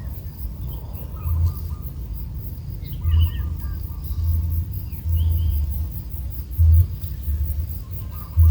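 Scattered short bird chirps and a faint high insect trill, over loud irregular low rumbling thumps.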